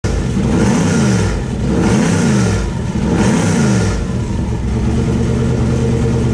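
Turbocharged LS V8 in a Porsche 914, heard at the exhaust outlet: blipped three times in quick succession, each rev rising and falling, then settling to a steady idle.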